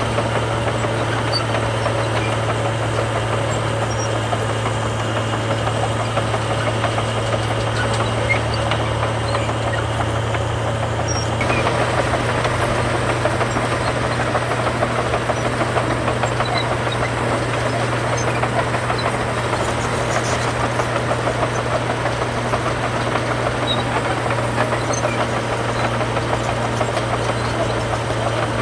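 Heavy diesel engine of earthmoving machinery running steadily, growing a little louder about eleven seconds in.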